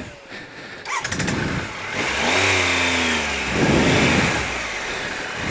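Triumph Explorer's 1215cc three-cylinder engine: quieter for about the first second with a few clicks, then running and revved twice, its pitch rising and falling.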